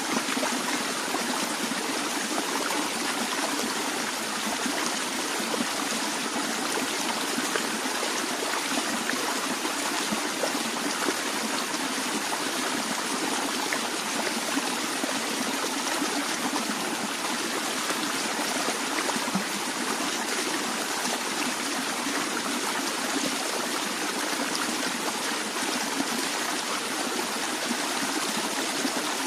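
A stream flowing steadily over stones, a continuous even rush of water with fine trickling.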